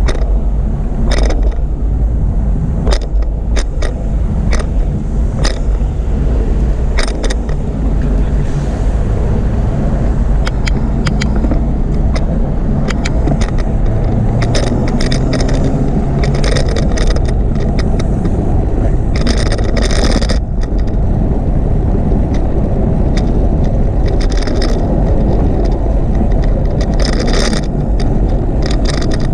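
Steady low rumble of wind and rolling noise from a camera riding on a moving bicycle, with frequent sharp clicks and rattles, thickest about two-thirds of the way through and again near the end.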